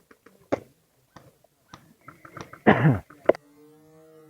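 Scattered sharp cracks of airsoft guns firing and BBs striking, with a short loud burst about three seconds in and a steady low hum near the end.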